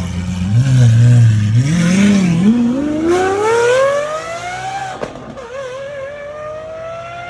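A car engine blipping its revs a couple of times, then accelerating hard with the pitch climbing steadily. It breaks off for a gear change about five seconds in, then climbs again in the next gear.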